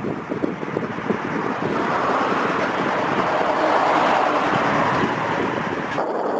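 Wind buffeting the camera's built-in microphone, with a broad rushing noise that swells and fades in the middle and changes abruptly near the end.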